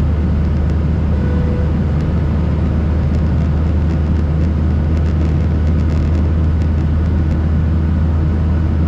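Steady in-flight cabin noise of a Boeing 737-800: a heavy low drone from its CFM56 engines under a constant rush of airflow, unchanging throughout.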